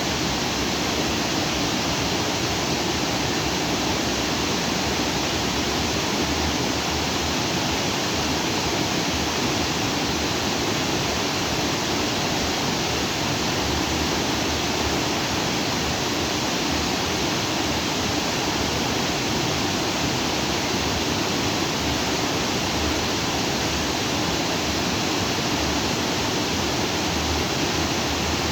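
Stream water flowing freely over and between rocks, a steady rushing with no breaks or changes.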